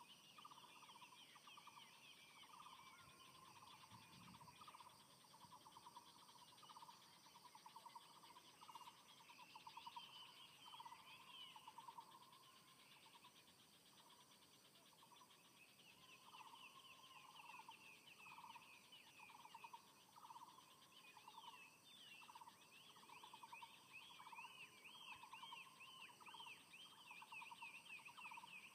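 Faint morning birdsong: a low pulsing call repeats over and over, while runs of quick high chirps come and go. A steady high-pitched whine runs underneath.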